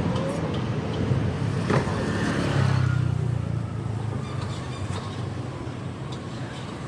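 City street traffic: a motor vehicle's engine rumbles past close by, loudest about three seconds in, then fading into the general traffic noise.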